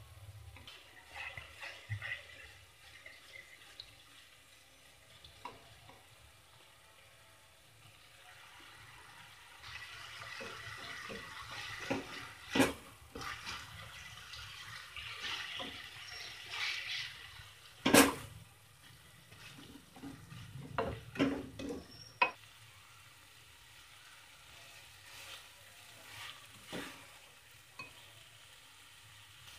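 Macaroni and vegetables frying in a kadai, sizzling most strongly through the middle while a spatula stirs and scrapes them around. A few sharp knocks of the spatula against the pan, the loudest about halfway through.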